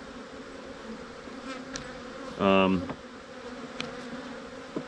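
Honeybees buzzing steadily around an opened hive: a large, aggressive colony stirred up as it is taken apart. About halfway through, a louder held tone lasts about half a second.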